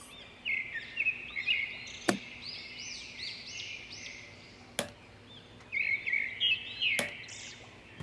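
Small birds chirping in a continuous series of short, high arched chirps, with three sharp clicks about two, five and seven seconds in.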